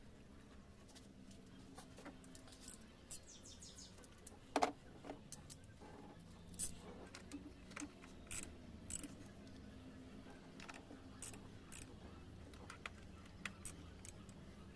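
Irregular light clicks and metallic taps, as of hand tools and small parts being handled, with the sharpest ones about four and a half and six and a half seconds in.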